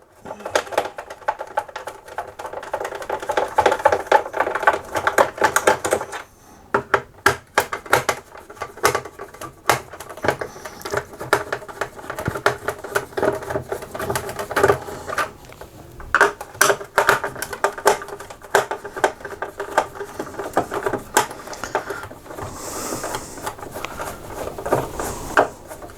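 Screwdriver working screws out of a laminator's plastic back casing: dense rapid clicking and rattling with a faint steady whir, pausing briefly about six seconds in.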